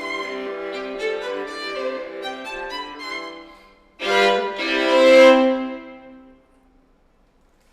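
Violin and viola duo finishing a movement: a running passage trails off, then two loud sustained closing chords ring out and die away into silence.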